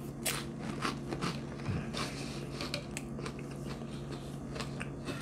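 Close-up chewing of a saltine cracker topped with sardine: irregular soft crunches and wet mouth clicks.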